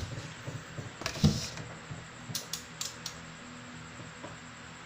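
Bench handling of a digital multimeter and test gear: a sharp knock about a second in, then a few quick light clicks.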